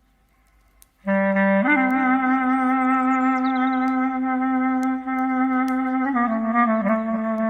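Solo clarinet playing a slow melody. After about a second of near silence it comes in on a low note, steps up to a long held note with a slight waver, then moves through a few shorter notes near the end.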